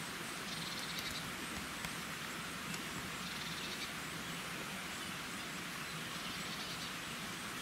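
A small bird calling in three short, rapid trills a couple of seconds apart, over a steady outdoor hiss.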